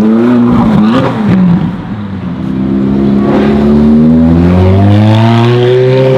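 High-performance sports car engine revving hard: a quick rise and a blip about a second in, then the car accelerating away with the engine note climbing steadily in pitch over several seconds.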